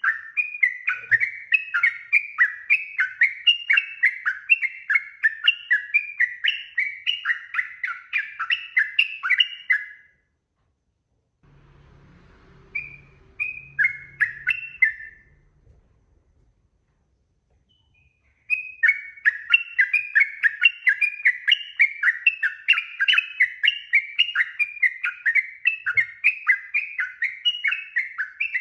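Yellow-vented bulbul (trucuk) singing a long, fast run of repeated chattering notes, about three a second. It breaks off about ten seconds in, gives one short phrase, falls silent, and takes up the run again after eighteen seconds.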